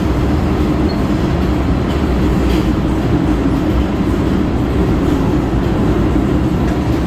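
MTR Kwun Tong line M-Train running along the track: a steady, loud rumble of wheels on rail.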